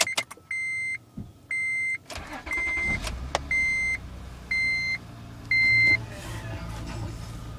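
2004 Acura TL's V6 cranking and starting cold about two seconds in, then idling at a fast cold idle. A dashboard warning chime beeps six times, about once a second, over the start.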